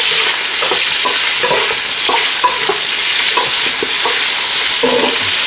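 Squirrel meat and bones frying in hot oil in a metal pot, sizzling steadily, while a metal spoon stirs the pieces and scrapes against the pot in short, irregular strokes.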